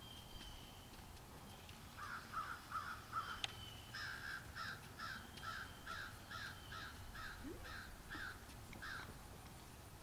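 A bird calling in a fast series of repeated calls, about two to three a second. A short run starts about two seconds in and a longer run follows from about four seconds to nine, with a sharp click between them.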